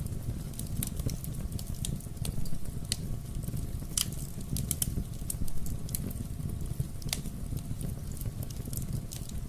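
Fire in a fireplace crackling, with many irregular sharp pops over a steady low rumble. One pop about four seconds in is louder than the rest.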